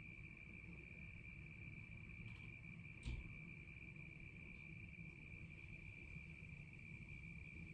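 Crickets trilling in one steady high-pitched tone over a faint low rumble, with a single sharp knock about three seconds in.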